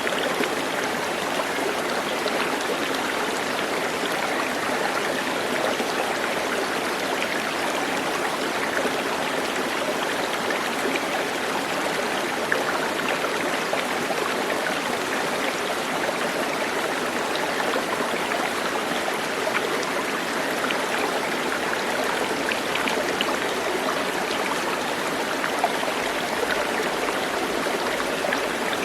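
Steady rushing of running water, like a stream, with an even level throughout.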